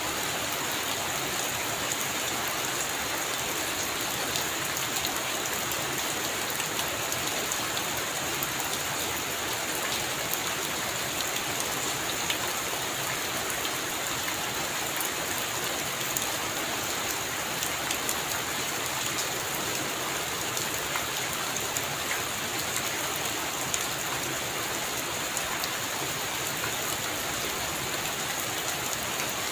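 Heavy rain falling steadily: a dense, even hiss with individual drops ticking sharply through it.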